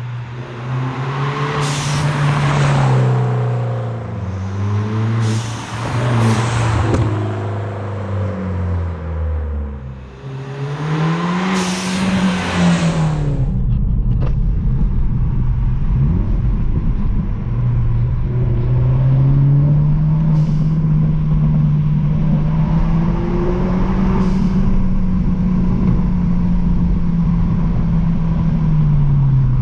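BMW 114i's 1.6-litre turbocharged four-cylinder with a straight-pipe exhaust, revving up and dropping back several times. Each time the throttle lifts, the Turbosmart blow-off valve vents with a sharp rush of air, about four times in the first thirteen seconds. After that the engine runs steadily, its pitch slowly rising as the car drives on.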